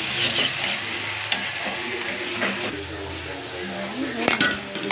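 Marinated chicken pieces sizzling in oil in a metal kadai while a spatula stirs them, with a few sharp scrapes and clinks of the spatula against the pan.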